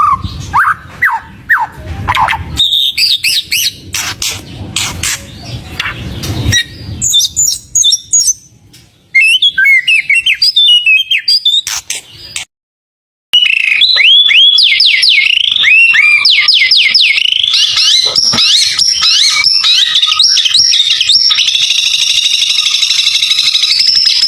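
White-rumped shama (murai batu) singing loudly, a varied run of whistles, sharp clicks and sliding notes. After a sudden break of about a second, it goes into quick repeated rising whistles and then a long, fast high trill.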